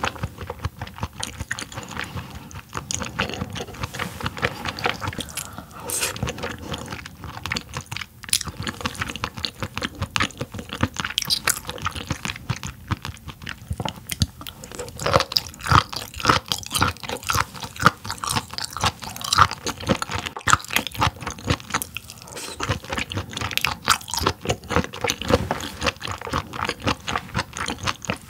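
Close-miked chewing of yellowtail fish: a dense, irregular run of small mouth clicks that goes on throughout.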